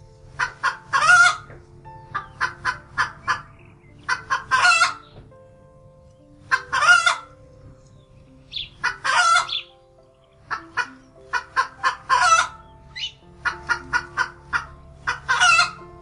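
Hens cackling: about seven bursts, each a few short clucks ending in a longer, louder drawn-out squawk.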